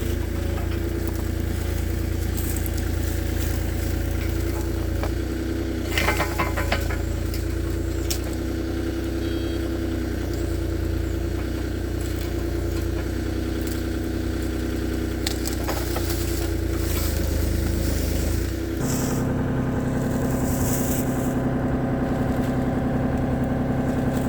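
Mini excavator engine running steadily, with a few short knocks; about three-quarters of the way through, its note changes abruptly to a different, higher hum.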